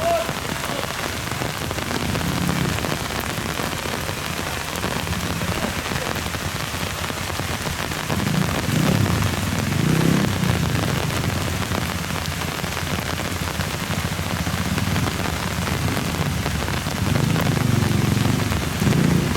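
Heavy rain hissing steadily, with a motorcycle engine running underneath that rises about 8 seconds in and again near the end.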